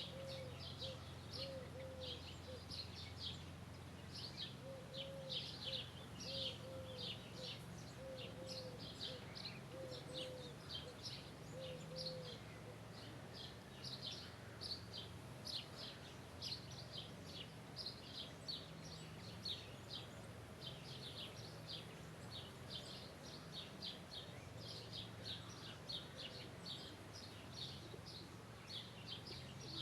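Birds chirping, many quick high notes overlapping into a continuous chorus. A lower, softer call repeats in short runs during the first half. A steady low rumble runs underneath.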